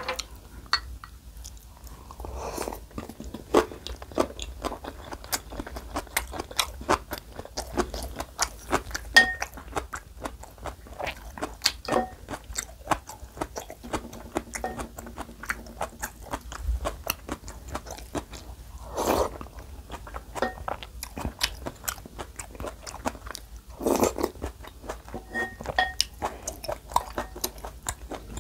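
Close-miked chewing of crunchy napa cabbage kimchi and soup, with many wet mouth clicks and crackles in an irregular rhythm. A few louder, longer mouth sounds come about two-thirds of the way in and again later.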